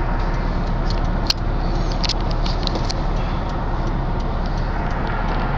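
Steady road and engine noise inside a moving car, with a few light clicks or rattles about a second to three seconds in.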